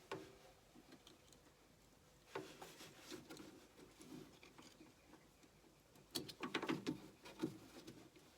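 Quiet scattered light clicks and taps of small objects being handled, with a denser run of them about six to seven and a half seconds in.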